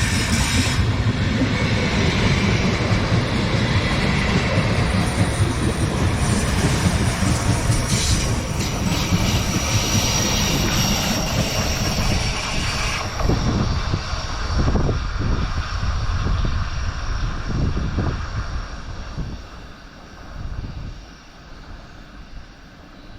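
Train passing close by, wheels running on the rails, with a thin high wheel squeal for a few seconds in the middle. The noise eases and fades away about 19 s in.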